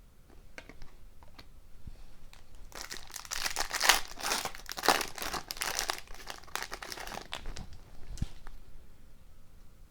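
A trading-card pack wrapper crinkling and tearing as a pack is opened, a run of rustling about three to seven and a half seconds in, with softer handling ticks around it.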